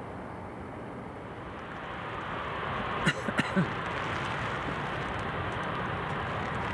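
Jet aircraft engine noise, swelling from about two seconds in and then holding steady. A few short sharp clicks and knocks come about three seconds in.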